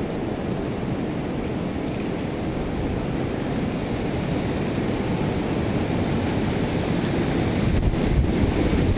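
Hurricane-force storm wind rushing steadily, buffeting the microphone, with a stronger gust building near the end.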